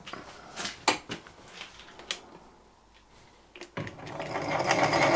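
A few light clicks and knocks of handling. About three and a half seconds in, a milling machine starts drilling out a threaded insert in an aluminium outboard engine mounting, with a steady mechanical drilling noise that swells and grows loud.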